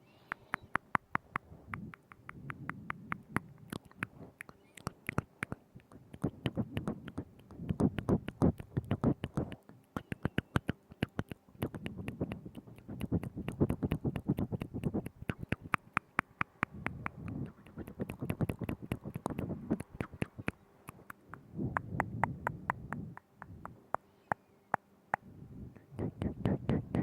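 Close-up mouth sounds into a binaural microphone: rapid, wet clicks and smacks of the lips and tongue. They come in clusters every few seconds, each carrying a low rumble under the clicking.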